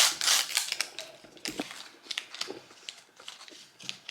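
A small plastic LOL Surprise wrapper being torn open and crinkled by hand. A loud rip at the start gives way to a run of small crackles and clicks.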